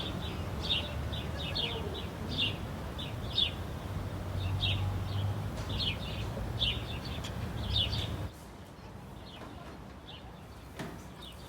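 Small bird chirping over and over, short high chirps about once or twice a second, over a low steady hum. The chirping and hum cut off suddenly about eight seconds in, leaving a quieter background.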